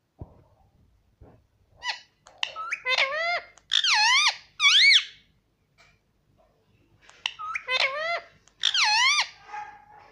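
Pet parrot giving two bouts of shrill squeaky calls whose pitch swoops rapidly up and down, the first about two seconds in and the second about seven seconds in.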